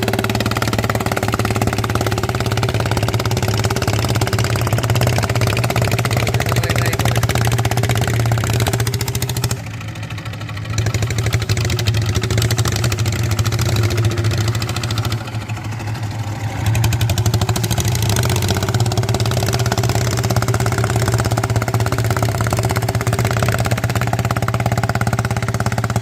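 Walk-behind tractor engine running steadily, easing off briefly about ten seconds in and again around fifteen seconds in.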